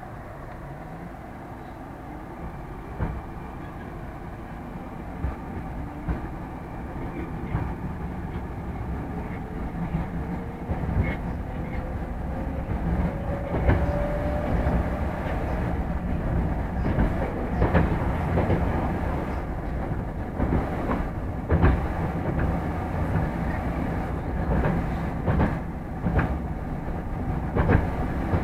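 Moscow Metro 'Moskva' electric train pulling away and speeding up. Its traction motors whine, rising in pitch for the first dozen seconds or so, while the running noise grows louder. From about a third of the way in, the wheels click more and more often over rail joints.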